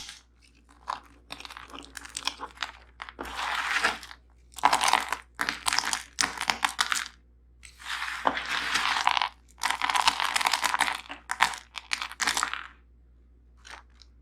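Close-miked crunching and chewing of crunchy food, in bursts of about a second with short pauses between, dying down near the end.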